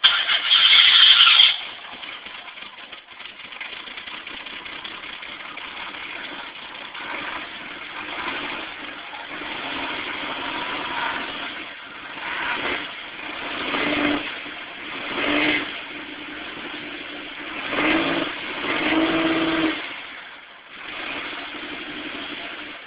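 1991 Buick Regal's V6 engine and exhaust, loud for the first second and a half, then idling and revved about six times in short swells.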